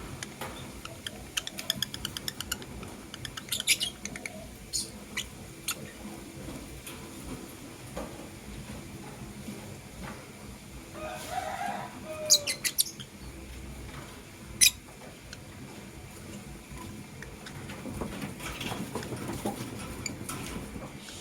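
Lovebirds giving scattered short, sharp, high chirps, with a cluster in the first few seconds, a lower falling call followed by a quick run of bright chirps about halfway, and one more sharp chirp soon after. Faint clicks and rustling fill the gaps between calls.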